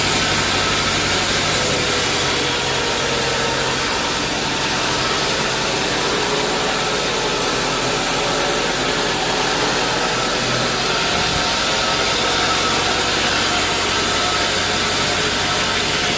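Sawmill machinery running steadily, a dense even noise over a low engine hum. A brighter hiss comes in about a second and a half in and drops away after about eleven seconds.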